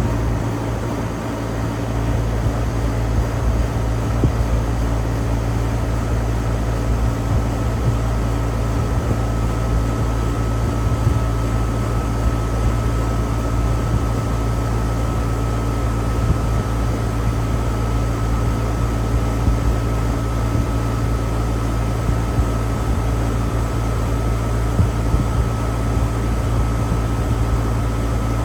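Outdoor central air-conditioner condenser unit running steadily: a constant hum with a thin steady whine above it.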